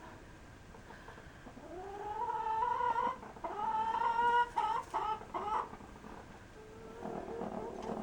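Domestic chicken giving drawn-out nesting calls: a long rising call about a second and a half in, a second held call, then three short clipped notes, and a low murmur near the end.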